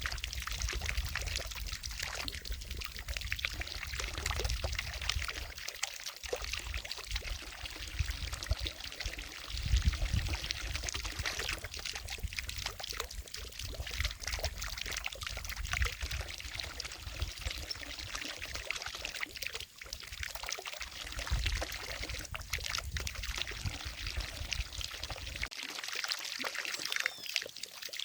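Water falling from a fountain and splashing into a lake: a steady pouring and trickling splash.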